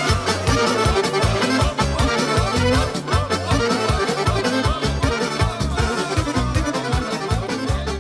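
Instrumental break of a Serbian folk-pop song: an accordion playing a quick, ornamented melody over a steady, fast beat.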